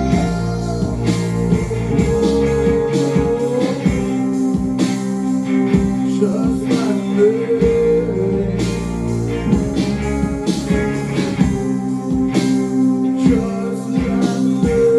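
A band playing a slow rock song on acoustic guitars, with picked and strummed chords under a held lead note that slides up into pitch several times.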